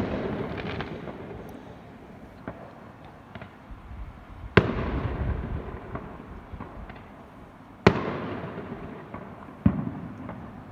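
Fireworks exploding: four sharp bangs a few seconds apart, each trailing off in a rolling echo, with small crackles in between.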